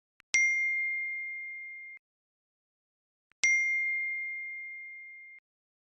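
Two identical single-pitched electronic dings about three seconds apart, each struck sharply, dying away for about a second and a half and then cut off abruptly, with a faint click just before each.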